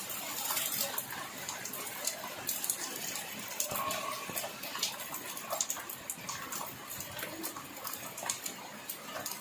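Rain falling and dripping, an even hiss of water broken by many scattered sharp drop ticks.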